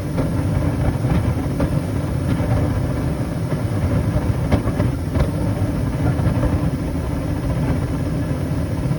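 Carrier gas furnace running: its burners and inducer fan make a steady low rumble, with a few faint clicks.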